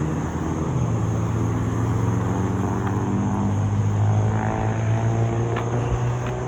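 A vehicle engine running steadily: a continuous low hum, with a slight shift in pitch around the middle.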